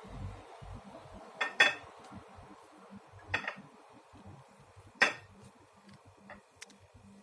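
Dishes and cutlery clinking in a kitchen: three sharp clinks about a second and a half apart, then a few fainter ticks near the end.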